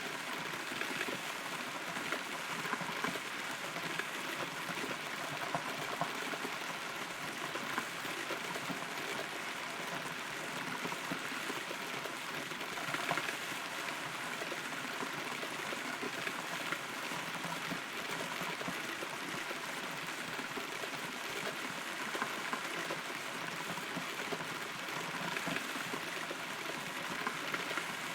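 Steady rain heard from inside a hollow rotten tree trunk: a continuous hiss of rainfall with many small drops ticking close by.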